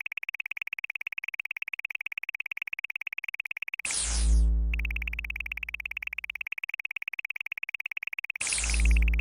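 Synthesized electronic sound effects: a fast ticking buzz with a steady high tone, broken twice by a falling whoosh that drops into a long, fading deep bass hum.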